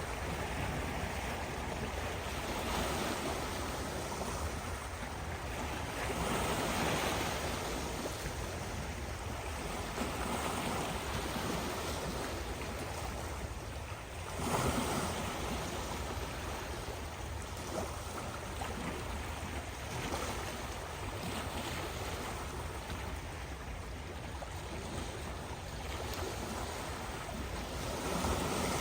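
Ocean waves breaking and washing ashore in a steady rush, swelling every few seconds, with the loudest surge about halfway through.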